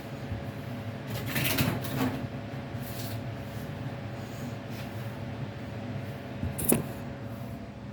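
Handling noises over a steady low hum: a rustle about a second and a half in, a lighter one near 3 s, and a sharp knock or click near the end.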